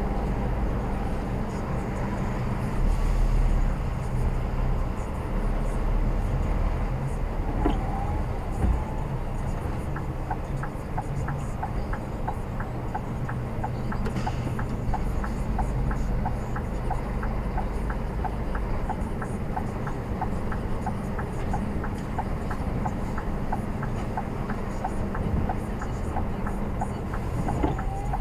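Truck engine running steadily with a low hum. From about a third of the way in, a regular light ticking, about one to two ticks a second, runs alongside it.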